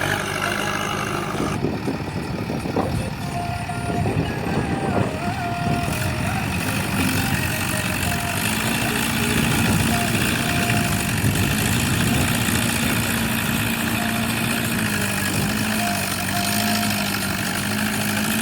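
Heavy diesel machinery running steadily, its engine note shifting a little in pitch now and then.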